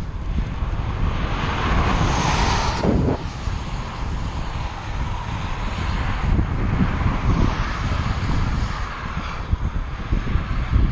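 Wind buffeting a moving microphone, a loud, steady low rumble with a hiss that swells about two seconds in and drops off near three seconds.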